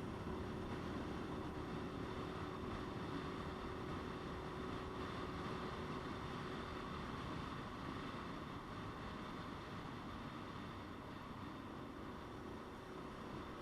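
Motorcycle riding at a steady speed: engine running under a steady rush of wind on the microphone, with a steady engine note that fades about halfway through.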